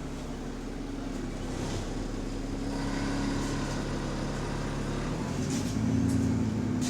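Diesel engine of a double-decker bus running, steady and then rising in pitch and getting louder about five seconds in as the bus pulls away or accelerates. The bus has an exhaust leak.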